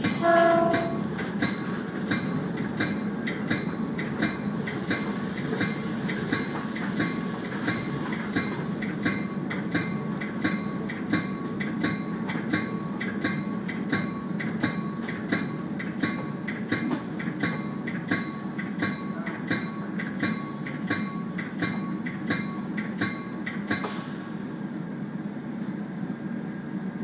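Passenger train running, its horn finishing a blast just under a second in. Then a bell rings in rapid, regular strokes over the rumble of the train until near the end, with a high hiss for a few seconds from about five seconds in.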